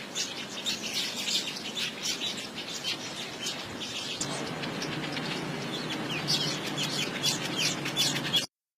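Many small birds chirping in quick, short, high calls. A low steady hum joins about four seconds in, and everything cuts off abruptly near the end.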